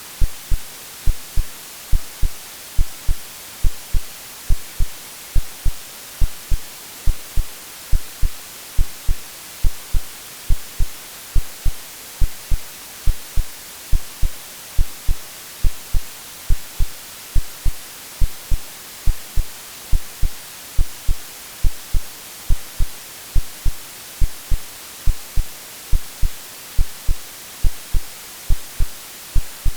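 AI-generated heartbeat sound, a steady double thump (lub-dub) about once a second, over a continuous hiss of white noise.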